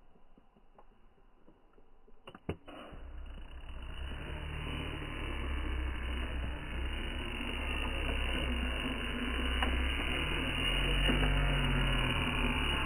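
RC monster truck running off-road: a few sharp clicks about two and a half seconds in, then a steady noisy rumble of motor and tyres on rough ground that builds over a couple of seconds and holds, its pitch rising and falling slightly near the end.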